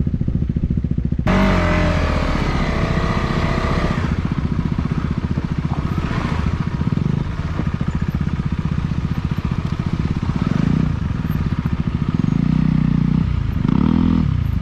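Motorcycle engine running under way, revving up sharply about a second in, then rising and falling in pitch twice in the second half.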